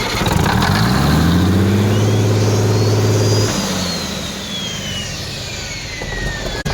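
Old International truck's diesel engine in a runaway: it climbs to a steady high speed, then cuts out about halfway through as a board smothers the air intake. A whine then falls slowly in pitch as the engine spins down.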